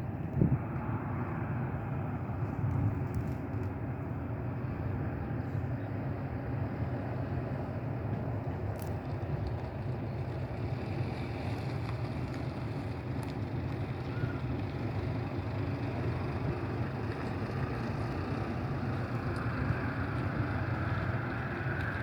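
Steady rumble of jet airliner engines, with a short thump about half a second in.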